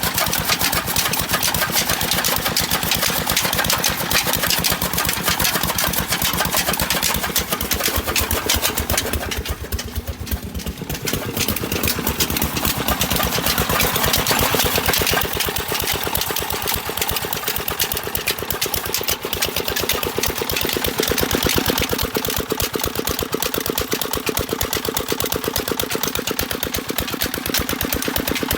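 Single-cylinder "Peter" diesel engine running with fast, even firing beats while it drives a chaff cutter and a water pump. It dips briefly about ten seconds in, then runs on steadily.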